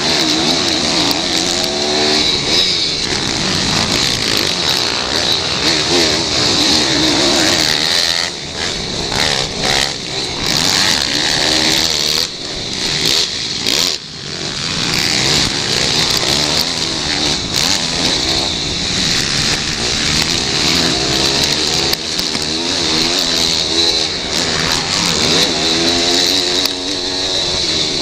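Pit bike engines racing on track, their pitch repeatedly rising under throttle and falling off through gear changes and corners, with a dip in the engine noise about halfway through.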